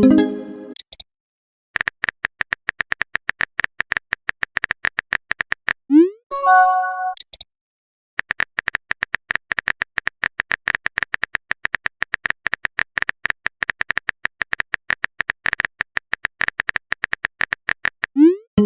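Messaging-app sound effects: long runs of rapid keyboard-typing clicks, broken three times (at the start, about six seconds in, and near the end) by a short rising whoosh and a bright pitched pop as a message is sent.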